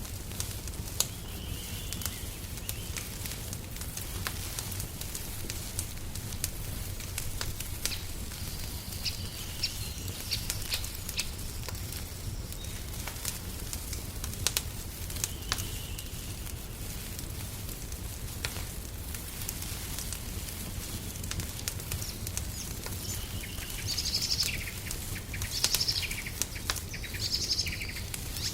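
Wood fire crackling in a fireplace, with scattered sharp pops over a low steady rumble. Birds chirp now and then, with a busier flurry of calls near the end.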